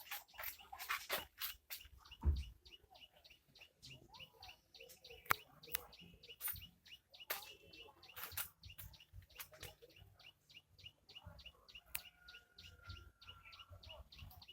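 Birds chirping in quick repeated notes, with scattered sharp clicks and knocks.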